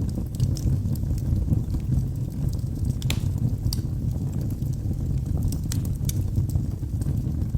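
Log fire burning in a fireplace: a steady low rumble of flames with sharp, irregular crackles and pops from the burning wood, the loudest about three seconds in.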